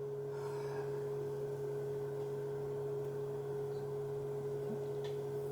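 Steady electrical hum: a low, even drone with a fainter higher tone above it, unchanging throughout.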